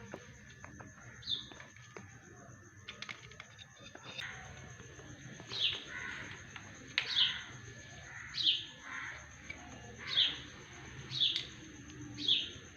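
A bird calling: a short, high, falling chirp repeated about once a second from about five seconds in, with a few faint clicks earlier.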